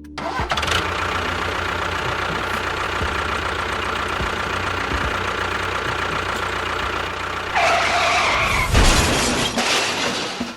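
An engine running steadily with a rapid even low pulse. About three-quarters of the way through it gets louder, with a wavering higher tone for about a second.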